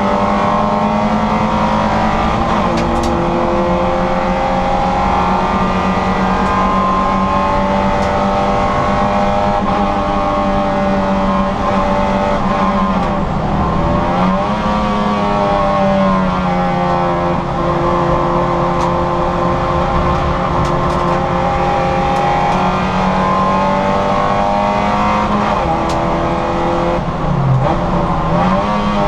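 Citroën Saxo VTR's four-cylinder petrol engine running hard at high revs under racing load. The pitch eases down, dips about thirteen seconds in and climbs again as it accelerates, with another brief dip near the end.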